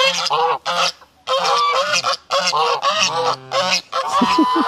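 Domestic geese honking loudly in rapid, repeated runs of short calls, with a few lower sliding calls near the end.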